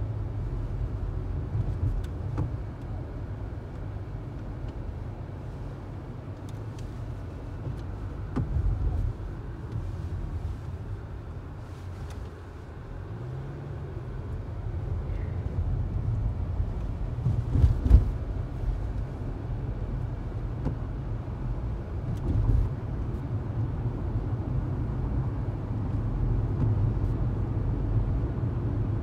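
Steady low rumble of a vehicle, with a few dull knocks; the loudest knock comes about 18 seconds in.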